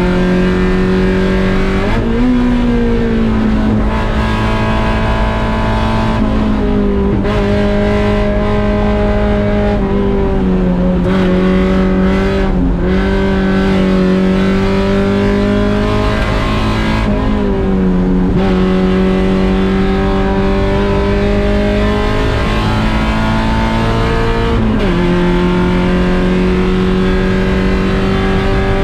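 Mazda Miata 1.6-litre four-cylinder race engine running hard at high revs. Its pitch holds fairly steady, then drops suddenly several times, every few seconds.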